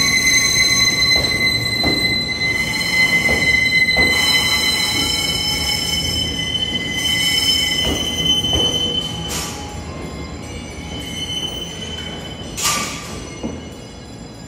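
E001 series Train Suite Shiki-shima train departing slowly, its wheels squealing on the rails with several steady high tones over a low rumble, with sharp clicks as the wheels pass rail joints. Two short hisses come later, and the sound fades as the last car passes.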